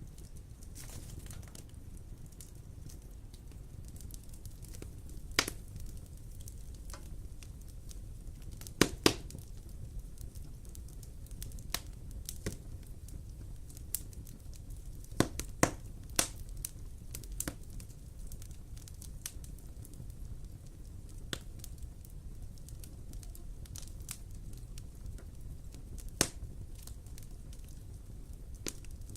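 Wood fire in a fireplace crackling, with sharp irregular pops over a steady low rumble; the loudest pops come in quick pairs about a third of the way in and again midway.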